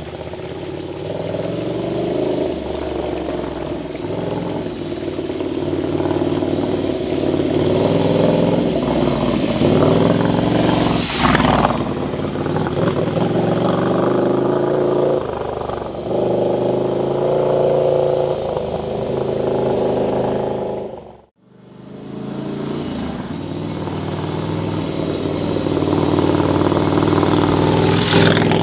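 Ducati Scrambler's air-cooled L-twin engine running under way, its revs rising and falling again and again. There is a brief rushing noise about 11 s in and another near the end, and the sound cuts out abruptly about 21 s in, then builds back up.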